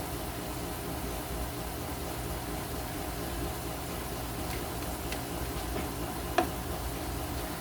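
Pot simmering on the stove: a steady hiss over a low hum, with a few faint clicks and one short knock about six and a half seconds in.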